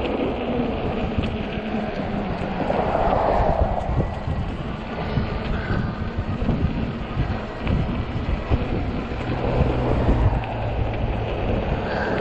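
Wind buffeting the microphone on a moving e-bike, a steady low rumble with gusty swells.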